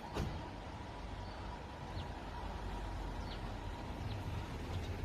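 Small birds chirping in short, high, repeated calls over a steady background hum.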